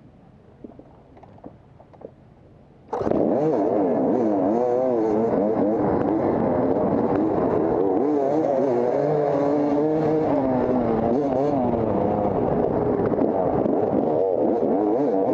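Quiet for about three seconds, then a row of off-road dirt bike engines starts at once and revs hard together as the riders take off from the start line, many engine notes rising and falling over one another.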